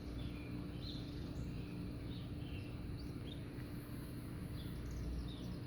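Canaries chirping: many short, scattered chirps over a steady low rumble and a faint hum.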